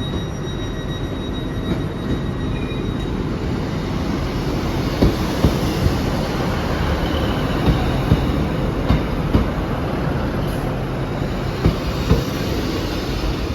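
Train moving along the track through the station, a steady rumble with a thin high wheel squeal in the first few seconds. From about five seconds in come irregular clacks of the wheels running over rail joints and points.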